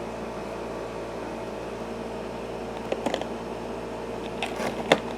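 Steady machine hum of a small room, with a few light clicks and taps about three seconds in and again near the end as small plastic parts of a 1/6 scale action figure are handled.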